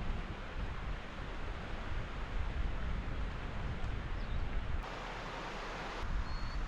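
Wind buffeting the microphone over a steady rushing outdoor hiss. The sound changes abruptly about five seconds in and again a second later.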